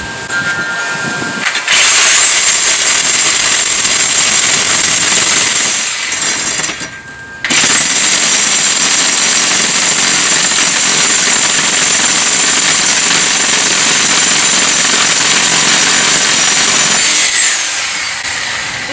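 Reciprocating saw (Sawzall) cutting through the metal bolts of a wooden cable spool: a short run, a brief pause, then a long steady cut, with the motor winding down near the end.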